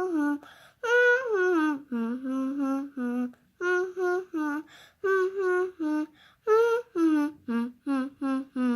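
A child humming a little tune without words: a longer held note at first, then about a dozen short notes stepping up and down.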